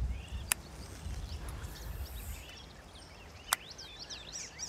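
Small birds chirping and singing in quick, rising and falling whistles, busiest near the end. Two sharp clicks about three seconds apart, and a low rumble that fades early on.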